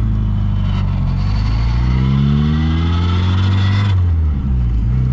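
A classic car's engine accelerating, its pitch climbing steadily for about three seconds. About four seconds in the pitch drops sharply as it shifts up a gear, then it runs on steadily.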